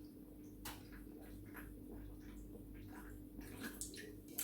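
Faint wet clicks and smacks of someone eating and chewing close to the microphone, scattered through the pause, over a low steady hum.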